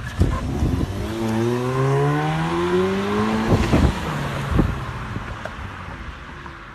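Car engine accelerating: its pitch rises steadily for about two and a half seconds, then drops back as at a gear change, with a couple of short knocks.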